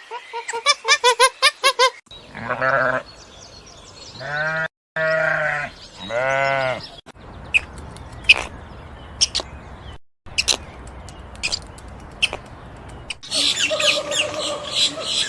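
A goat bleating: four long, wavering bleats in a row, after a quick run of short high-pitched calls at the start. Later come quieter scattered clicks and, near the end, a busier burst of animal noise.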